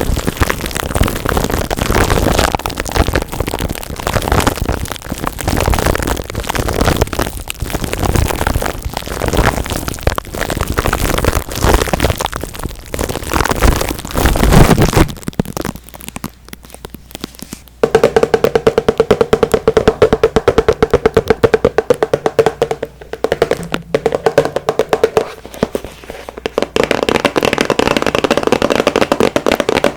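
Close-miked ASMR trigger sounds: dense crackling and scratching for about fifteen seconds, then after a brief quieter stretch, fast steady tapping with a steady tone beneath it.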